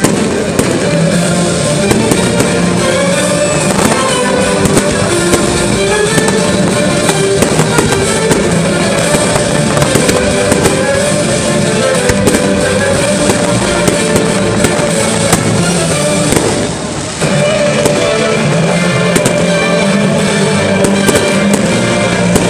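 Fireworks bursting and crackling in quick succession, with music playing steadily underneath. The sound dips briefly about seventeen seconds in.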